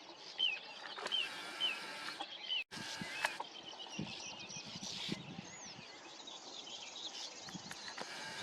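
Wild birds calling: one bird repeats a short, sharp, hooked call about every half second, then after a brief break several birds call together.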